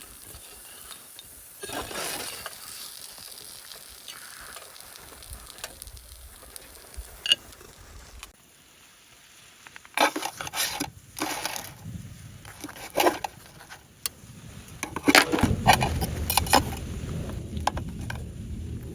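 Food sizzling in a camp pot while it is stirred, a steady hiss for the first eight seconds. After that, a series of sharp clinks and knocks of cookware being handled, over a low rumble.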